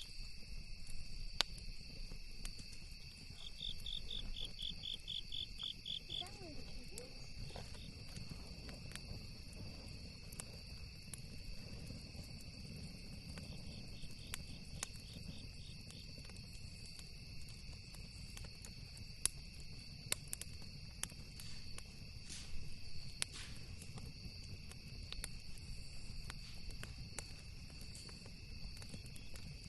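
Campfire crackling with scattered sharp pops, over a steady high drone of crickets and other insects. Twice, short runs of rapid evenly spaced chirps stand out from the drone.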